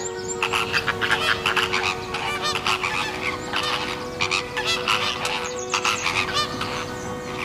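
A flock of flamingos calling: a continuous chorus of many short, overlapping goose-like honks.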